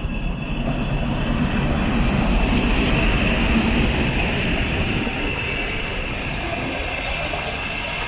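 Passenger train running through a station without stopping: a steady rumble of wheels on rails with a faint thin high ringing tone, loudest about two to four seconds in and then easing off slightly.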